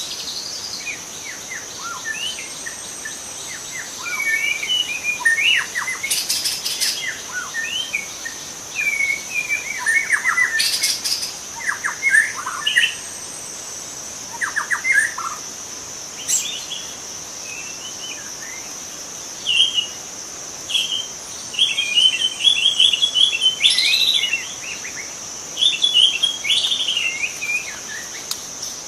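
Young white-rumped shama (murai batu) singing, its song made of quick varied whistles and chattering phrases that come in clusters with short pauses. A steady high-pitched drone runs underneath.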